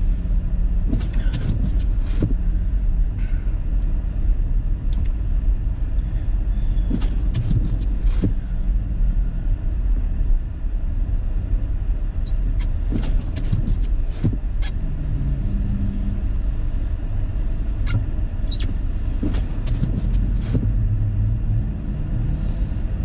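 Car cabin noise while driving: a steady low rumble of engine and tyres, with scattered short clicks and knocks and the engine's pitch shifting now and then.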